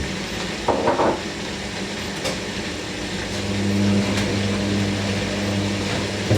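Hoover NeXtra front-loading washing machine starting its final spin: a couple of short knocks about a second in, then a steady motor hum that grows louder from about halfway as the drum speeds up. The drum is running on worn-out shock absorbers.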